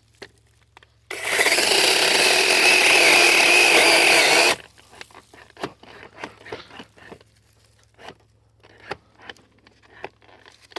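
DeWalt compact battery-powered chainsaw running in a cut through an oak branch for about three and a half seconds, then stopping abruptly as it bogs down. Scattered light knocks and rustles follow.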